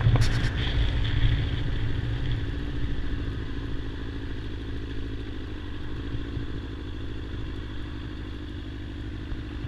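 2007 Kawasaki ZZR600's inline-four engine running steadily at low revs. It fades gradually over the first few seconds, then holds steady, with a couple of faint clicks just after the start.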